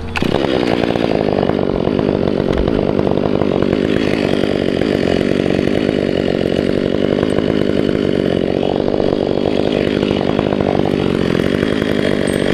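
Chainsaw opening up suddenly to full throttle and running steadily under load as it cuts through the trunk, a release cut made once the climber is clear.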